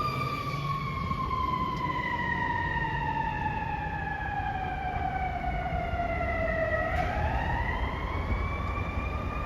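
Fire truck siren wailing, its pitch slowly falling for about seven seconds and then rising again, over the low rumble of the truck.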